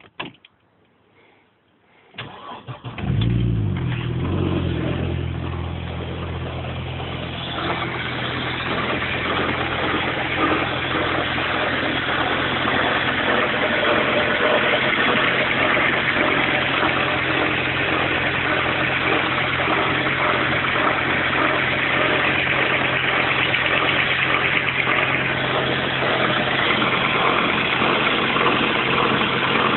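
A click, then the Audi 200 20V's turbocharged 3B inline five-cylinder engine cranks and starts about two seconds in, and settles into a steady idle. About five seconds after it catches, a rattly, hissing noise joins the idle and keeps on: the strange noise the owner is asking about.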